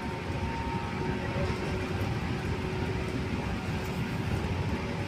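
Steady running noise inside a moving commuter train: an even low rumble with a faint steady whine.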